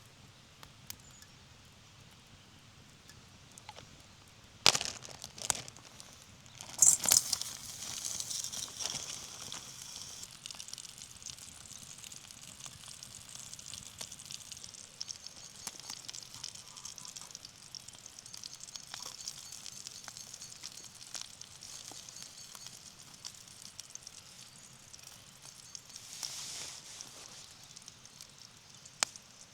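Campfire crackling: a couple of sharp snaps about five and seven seconds in, then steady crackling.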